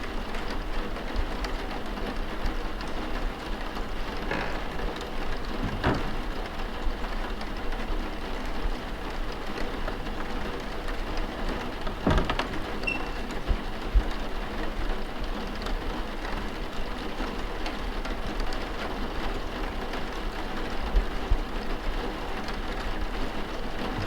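Steady rain falling, an even patter, with a few faint knocks scattered through it.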